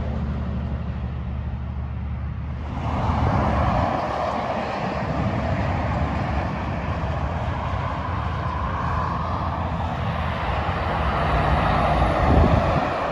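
Freeway traffic passing at speed: trucks' engine drone and tyre noise. A new wave of tyre noise builds about three seconds in and is loudest just before the end.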